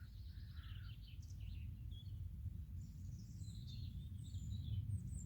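Several wild birds chirping and trilling in short, scattered phrases, over a steady low rumble.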